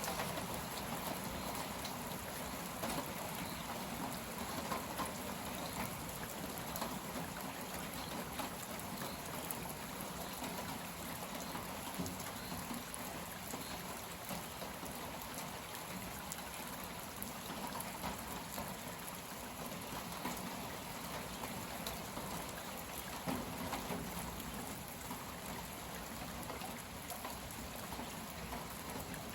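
Moderate rain falling steadily, an even hiss with scattered drop hits: the steady rain that sets in as a cold front passes and the gusty wind dies down.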